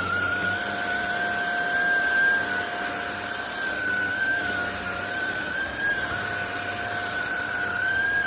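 Trucozie cordless stick vacuum cleaner running steadily: a high motor whine that wavers slightly in pitch, with a fainter lower tone over rushing air.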